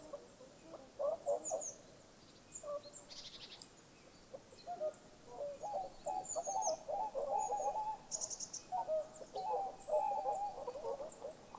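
Birds calling: runs of quick, low chattering calls come in several bursts, with faint, short high chirps from other birds over them.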